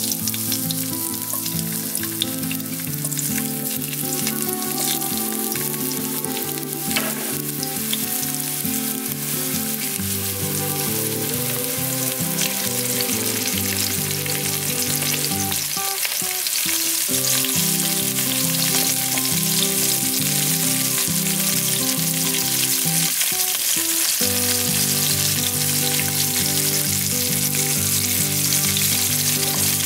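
Whole grey mullet sizzling as they pan-fry in hot oil in a wok: a steady, dense frying hiss that grows a little louder in the second half.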